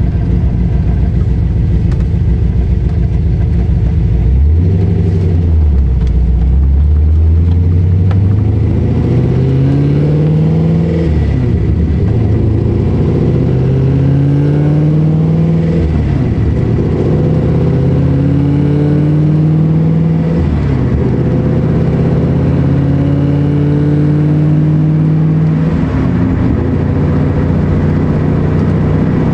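Cammed LS3 V8 in a C6 Corvette with a Stage 3 BTR camshaft, headers, X-pipe and dual exhaust. It idles for the first few seconds, then climbs in pitch about four times, each time holding briefly before the note drops back sharply.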